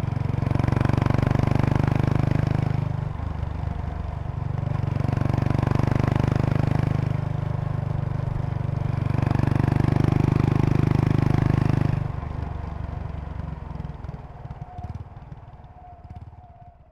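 2003 Kawasaki Estrella RS's air-cooled single-cylinder four-stroke engine through an aftermarket Yamato muffler, heard while riding: it pulls under throttle three times with easing between, then the throttle closes about twelve seconds in and the exhaust sound dies away.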